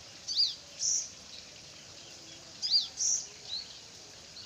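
Sogon (crimson sunbird) calling: a short high two-note phrase, a quick down-and-up chirp followed by a brighter note, given twice about two and a half seconds apart, with a faint extra note after the second.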